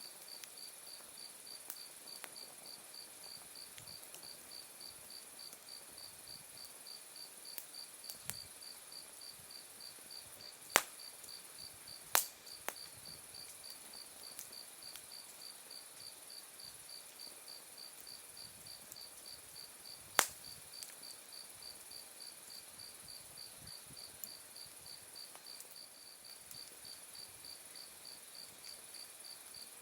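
Autumn night insects chirping steadily: one call pulses a few times a second over a continuous high trill. Over this an open wood fire crackles with scattered sharp pops from the burning logs, three of them loud.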